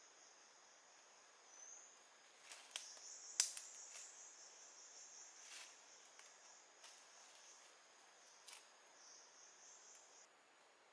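Faint, steady high-pitched insect drone that stops shortly before the end, with a handful of sharp clicks over it, the loudest about three and a half seconds in.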